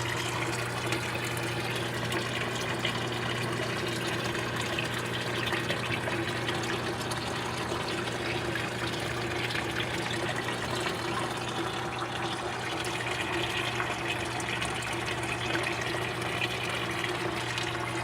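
Water running and splashing steadily into a fish tank, over a low steady hum.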